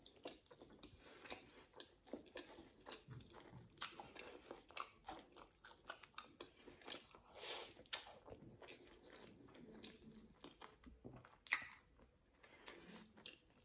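Faint, close-miked chewing of grilled meat and pap: irregular wet mouth clicks and smacks.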